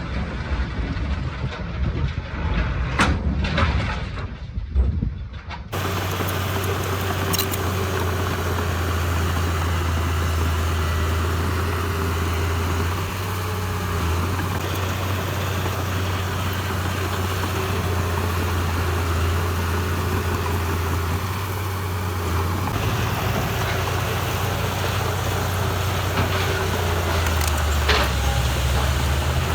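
Diesel engine of heavy earthmoving machinery running steadily with a deep low hum. For the first six seconds there is a muffled stretch with a few sharp knocks, then the sound switches abruptly to the steady engine.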